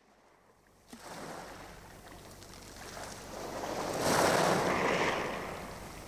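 Sea water rushing and splashing along a sailing yacht under way, with wind on the microphone. It fades in and swells into a louder wash about four seconds in.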